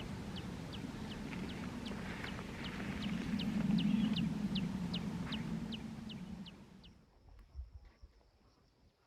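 A bird calling over and over in a quick series of short, high, falling notes, about two or three a second, over a louder low rumble. It all cuts off about seven seconds in, leaving a faint steady high whine and a few soft knocks.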